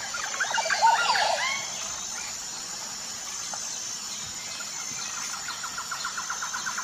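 Bird calls over a steady hiss: a flurry of quick, curving chirps in the first second and a half, then a fast, rattling run of repeated notes near the end.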